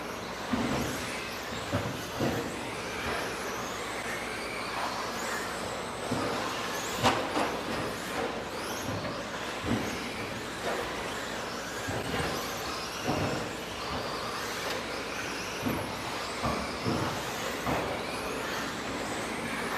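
Several 1/10-scale 2WD electric stadium trucks with 13.5-turn brushless motors racing together: a dense mix of motor whine rising and falling with the throttle and tyre noise, with scattered sharp knocks.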